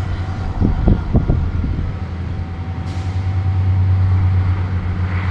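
Diesel engine of an excavator running steadily with a deep hum. A few short higher-pitched sounds come and go about a second in.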